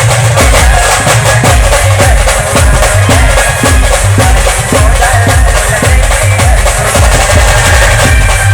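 Loud band music with a steady, driving drum beat: a deep bass drum repeating regularly under sustained high instrument tones.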